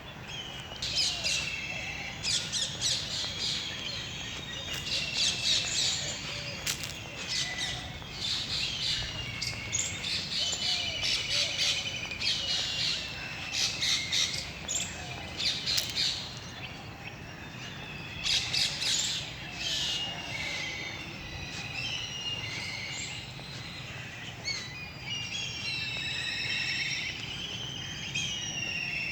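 A flock of birds chirping and calling together: many short, overlapping high-pitched calls and trills that come in louder clusters every second or two, with some squawks among them.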